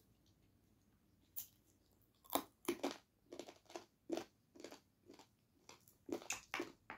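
Close-miked chewing of a mouthful of rice and curry, crunchy bites coming about two to three a second from about two seconds in, after a single click.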